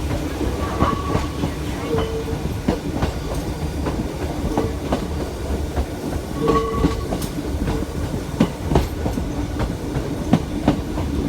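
Hakone Tozan Railway electric train running on its mountain track: a steady low rumble with irregular knocks of the wheels over rail joints, and a few brief squeaks.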